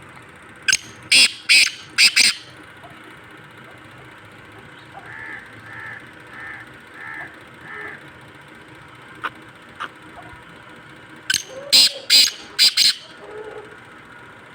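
Black francolin (black partridge) calling twice, each call a quick run of four or five loud, harsh notes, with a fainter run of five evenly spaced notes in between.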